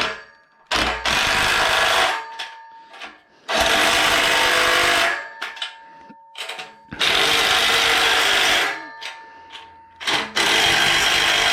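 Power drill-driver running in four loud bursts of about one and a half seconds each, driving fasteners tight into the router table frame.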